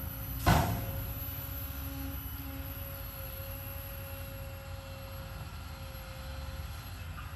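Heavy diesel construction machinery running at a low, steady idle, with one sharp bang about half a second in.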